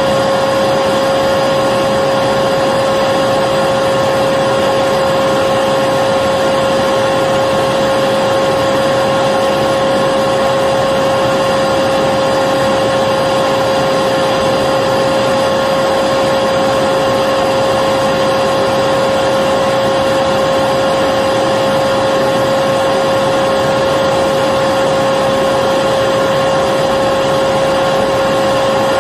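Electric vacuum cleaner running continuously at a steady pitch, a whine sitting over the rush of air with no change in speed or load.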